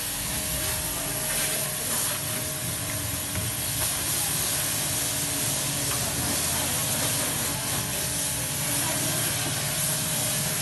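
Steady hiss of a water jet spraying, with a low steady hum underneath.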